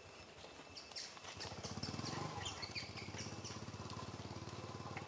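Small birds chirping in short, high calls. A low, fast-pulsing rumble comes in about a second and a half in.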